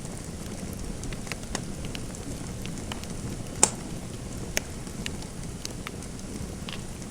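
Fireplace fire crackling: a steady low rush of burning, with scattered sharp pops and snaps, the loudest a little past halfway and another about a second after it.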